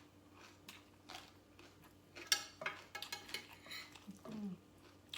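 Close-up eating sounds: sharp crunches and clicks of someone biting and chewing papaya salad and raw vegetables, with light utensil-on-plate clinks, loudest a little past two seconds in. A brief low murmur near the end.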